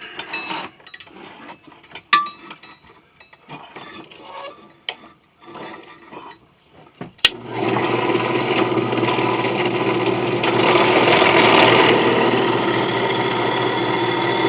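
Scattered clicks and light knocks of tools being handled, then a sharp switch click about seven seconds in, after which a drill press motor starts and runs steadily at a constant pitch, a little louder for a moment partway through.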